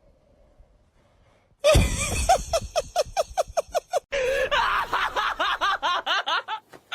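A person laughing hard in rapid, pitched bursts, several a second, starting suddenly about two seconds in after a quiet start and running on in a second, higher, rising-and-falling stretch.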